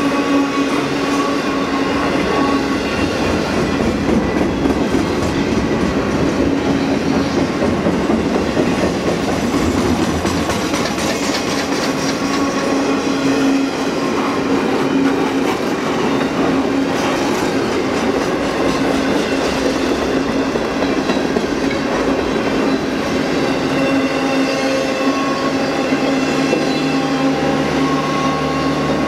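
Norfolk Southern intermodal freight cars rolling past at speed: a steady, loud rumble and clatter of steel wheels on rail, with a constant ringing tone running through it.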